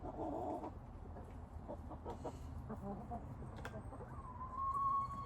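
Chickens clucking softly, with one drawn-out, steady call near the end.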